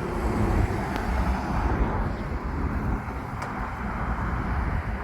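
Car engine and exhaust running as a car drives past at low speed, a deep rumble that eases off about three seconds in.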